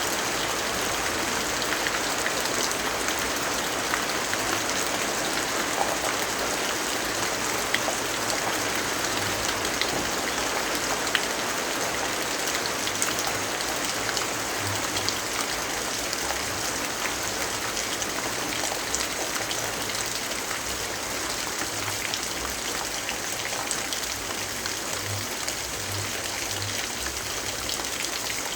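Steady rainfall, an even hiss of rain with scattered sharp drop ticks.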